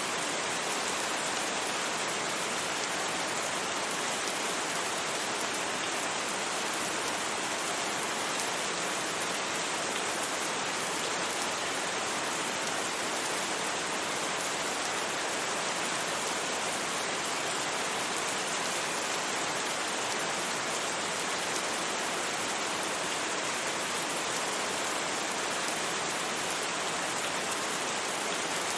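Steady rain falling, a dense even hiss of many drops with no thunder, blended with a white-noise bed.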